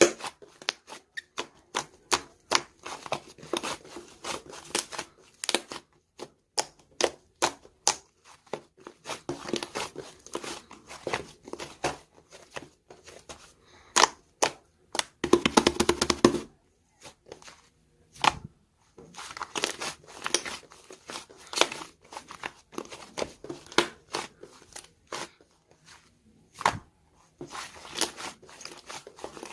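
A run of close-up handling noises: irregular taps and clicks with crinkling and tearing, denser for a second or so in the middle.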